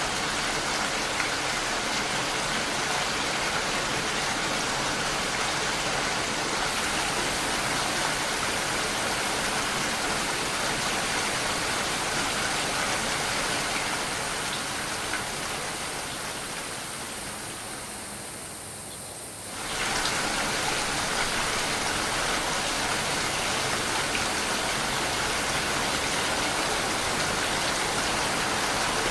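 Steady rain falling, a dense even wash of noise. A little past halfway it fades gradually quieter over about five seconds, then comes back to full level all at once.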